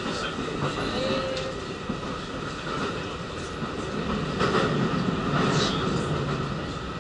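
Electric commuter train running on the rails, its rolling rumble heard from inside a passenger car, swelling a little about two-thirds of the way through.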